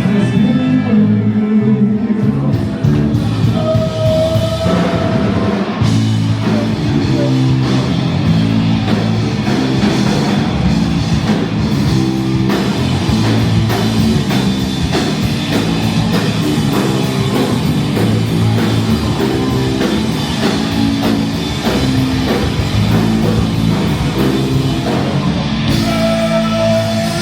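Loud rock music with electric guitar, a drum kit keeping a steady beat, and singing.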